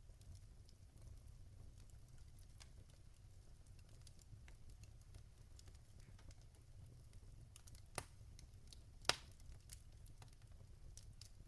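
Burning logs in a fireplace crackling faintly, with scattered small clicks and two louder pops about eight and nine seconds in, over a low steady rumble.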